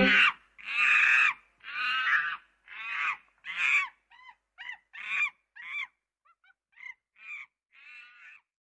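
Music cuts off just after the start. It is followed by a bird calling over and over, about a dozen short pitched calls that grow fainter and more broken up toward the end.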